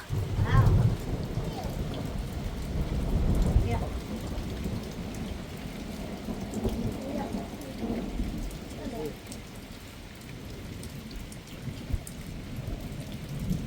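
Steady rain falling, with low rolls of thunder that are loudest in the first few seconds.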